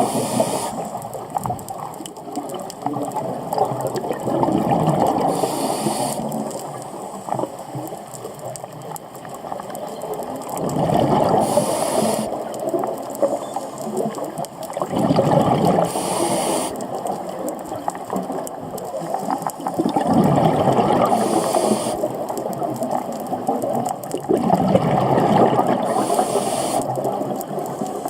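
Scuba diver breathing through a regulator underwater, a cycle about every five seconds: a short hiss on each inhale, then a long rush of exhaled bubbles.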